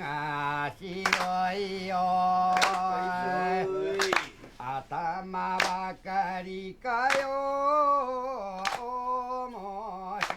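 A voice singing or chanting long held notes that bend slowly in pitch, with a sharp percussive strike about every second and a half.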